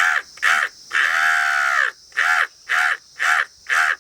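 A man imitating a crow's cawing with his voice: a run of caws, one long drawn-out caw about a second in, then four short caws about half a second apart.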